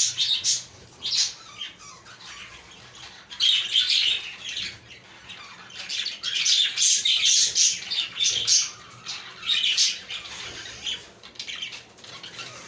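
Many budgerigars chirping and warbling together, in irregular bursts of high chatter that rise and fall throughout.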